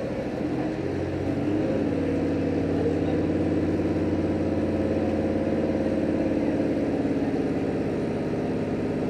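Diesel engine of a JR Hokkaido H100 diesel-electric railcar, heard from inside the car: it picks up about a second in, rising briefly in pitch, then runs on steadily under load, as when the train pulls away from a stop.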